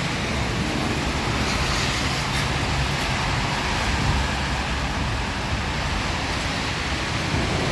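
Steady downpour of rain, an even hiss with a low rumble underneath.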